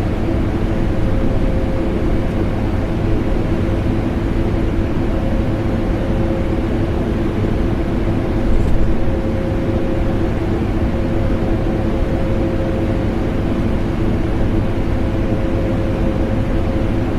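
A vacuum cleaner and an air conditioner running together: a steady, even drone with a constant motor hum.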